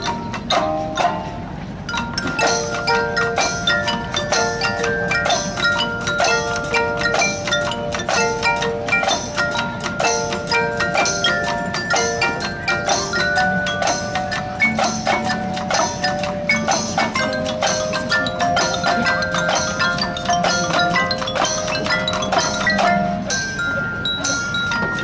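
Marching band music led by mallet percussion: a fast, even run of struck marimba and bell notes over held chords, picking up again after a brief dip about two seconds in.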